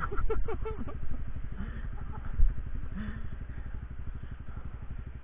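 An engine running steadily with an even, fast pulsing rumble.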